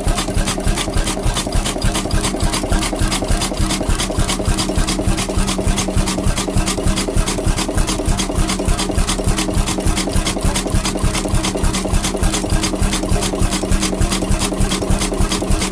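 Vintage engine running steadily with an even, rapid beat of about four a second.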